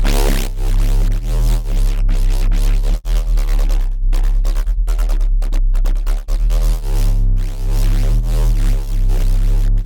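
Dirty FM synth bass riff from Bitwig's Polygrid modules, playing a looping pattern of short, heavy bass notes with brief gaps between them. A bright, noisy flare opens it.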